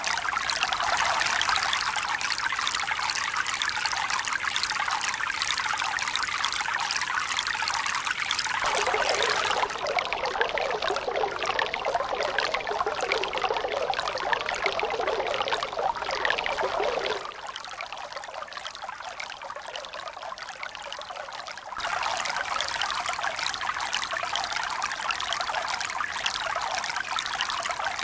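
Continuous running, pouring water with a steady hiss and no rise and fall of waves. Its tone and loudness change abruptly three times: it turns duller about ten seconds in, drops quieter about seventeen seconds in, and jumps back to the first bright sound about twenty-two seconds in, like cuts between recordings.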